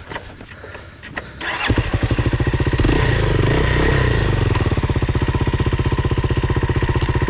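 A dirt bike engine starts about a second and a half in. It revs up and down briefly, then settles into an even, steady idle.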